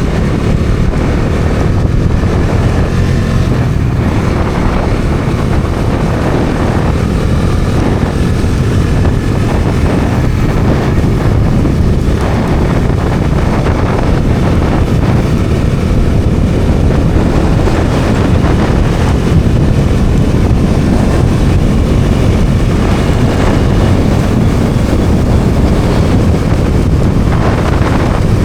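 Bajaj Dominar 400 motorcycle ridden at a steady road speed: its single-cylinder engine running under heavy wind rush on the microphone.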